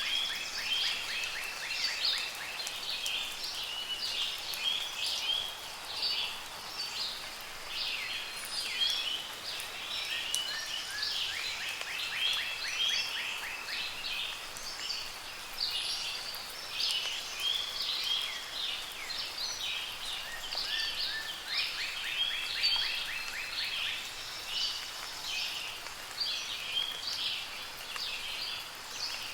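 Dense chorus of many songbirds singing and calling over soft rain, with a fast trill recurring about every ten seconds.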